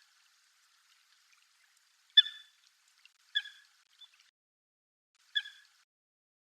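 Common coot giving short, sharp single calls, three of them about one to two seconds apart, the first the loudest.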